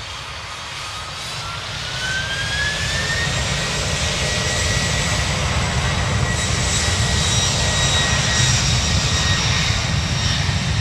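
Boeing 747's four jet engines spooling up to takeoff thrust: a whine rises in pitch over the first three seconds, then holds steady over a low rumble that grows louder.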